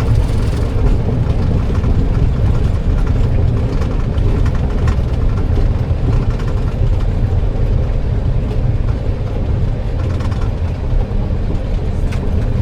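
Boeing 737 cockpit noise during the landing rollout: a steady, loud low rumble of the aircraft rolling along the runway.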